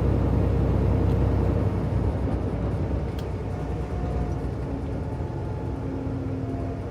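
Semi truck's diesel engine drone and road noise heard inside the cab while cruising on the highway; the low engine drone eases off somewhat about two seconds in.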